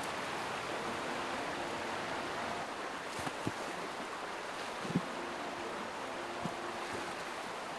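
Steady rush of a flowing river, with a few soft low thumps about halfway through, the loudest near the middle.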